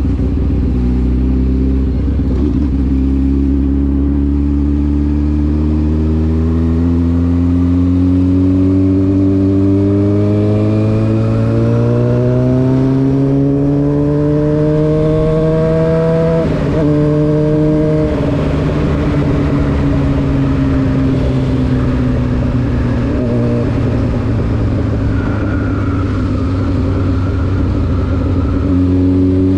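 Honda CBR600F4's inline-four engine through an SC Project exhaust, with its note climbing steadily in pitch for about sixteen seconds as the bike accelerates. After a short break in the note about halfway, the pitch falls slowly as the throttle is rolled off, then rises sharply again near the end.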